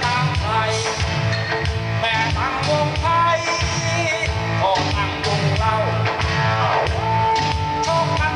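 Recorded Thai song played from a vinyl record: an instrumental passage with a steady beat and a melody line that bends and glides, holding one long note near the end.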